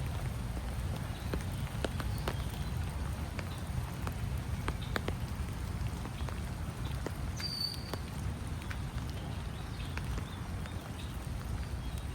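Raindrops pattering as scattered irregular taps over a low steady rumble. A bird gives a brief high chirp about seven and a half seconds in.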